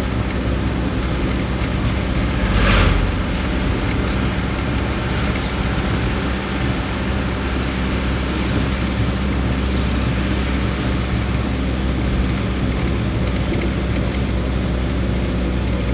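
Dump truck engine running steadily with a low hum and a rushing noise, and a brief knock about three seconds in.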